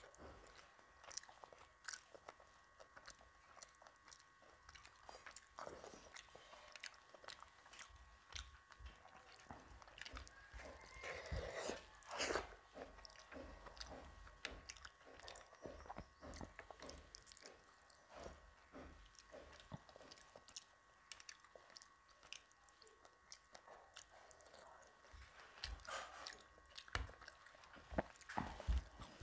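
Quiet close-up eating sounds: chewing mouthfuls of rice and fish curry eaten by hand, with many small clicks, a little louder about eleven seconds in and again near the end.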